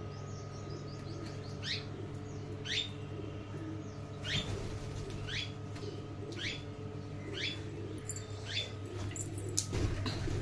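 A bird's short, sharply rising squeaky calls, repeated about once a second over a steady low hum, with a louder noisy burst near the end.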